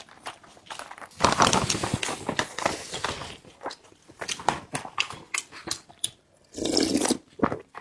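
Close-miked eating of kao leng mian (grilled cold noodles) with spicy turkey noodles: chewing and biting, with many short wet clicks and smacks, busiest in the first few seconds and again near the end.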